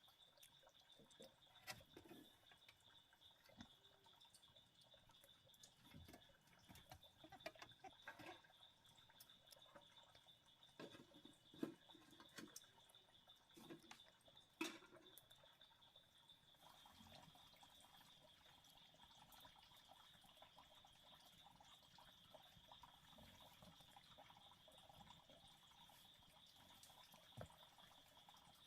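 Faint night ambience: a steady high-pitched insect trill under scattered small knocks, clicks and drips of water.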